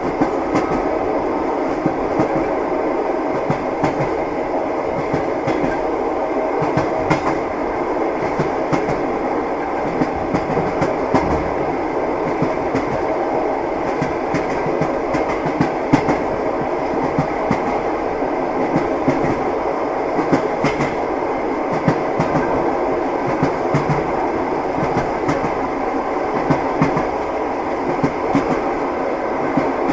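Train wheels clattering over the rails, heard from inside a passenger compartment: a steady rumble with scattered short clicks.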